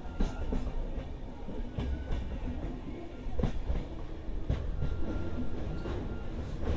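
Passenger express train running on the rails: a steady low rumble with the wheels clattering and knocking over the track every second or so.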